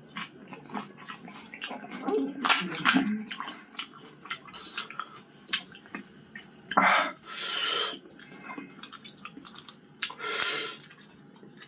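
Close-up sounds of eating pani puri: the crisp fried shells crackle and crunch in short clicks, with a few louder wet slurps and chewing of the water-filled puris.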